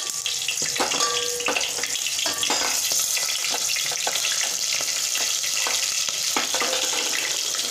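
Green chillies sizzling and crackling as they fry in hot oil in a metal pot, with a metal ladle stirring and scraping in the pot now and then.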